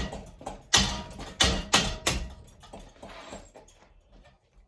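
Ceiling fan blade arm being struck hard to snap it off: about five sharp blows in the first two seconds, followed by fainter clattering.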